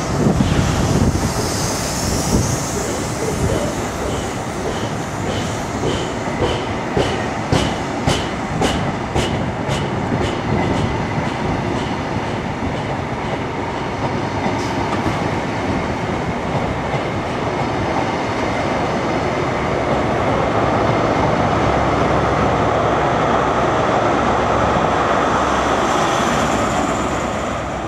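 First Great Western InterCity 125 high-speed train passing close by on the platform line. The coaches roll past with their wheels clicking about twice a second. Near the end it gets louder as the rear Class 43 diesel power car goes by.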